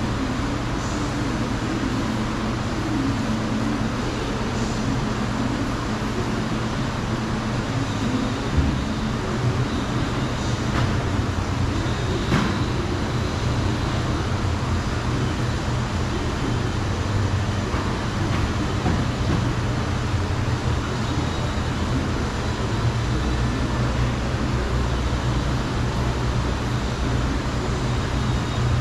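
A steady mechanical hum with a hiss, and a few faint knocks or clicks.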